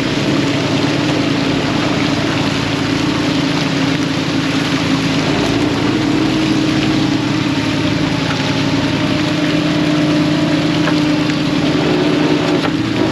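Fishing boat's engine running steadily, a constant drone under a loud rush of water and wind noise.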